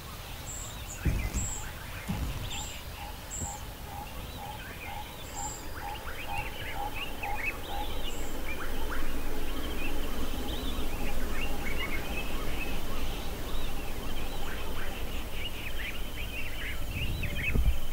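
Wild birds calling: a quick run of evenly spaced lower notes lasting several seconds in the first half, a few thin high notes, and a chatter of chirps and whistles that grows busier and louder toward the end.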